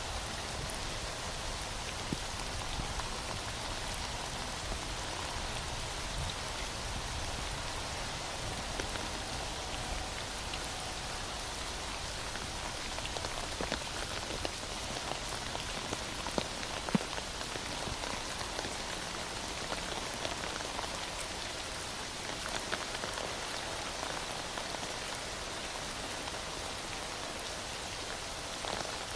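Heavy rain falling steadily, with scattered drops ticking on a surface.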